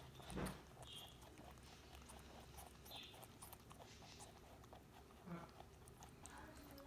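Pet rabbit chewing its food: a run of faint, rapid crunching clicks, with one louder thump about half a second in.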